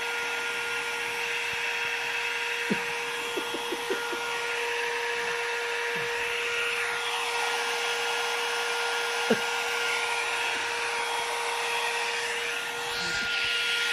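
Hair dryer running steadily: a rush of blown air with a steady motor whine. A few brief short sounds cut in about three seconds in and again about nine seconds in.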